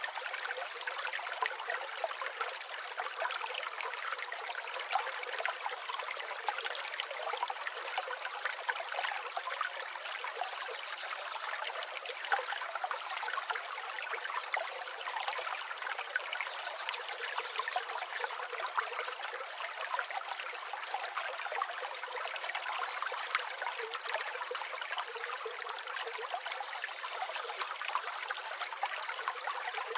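River water flowing steadily: an even, unbroken rush and trickle of water with no low rumble.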